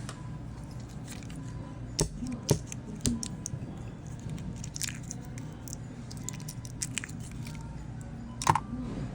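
Small sharp clicks and taps, about four of them standing out, from handling a wristwatch during battery replacement, over a steady low hum.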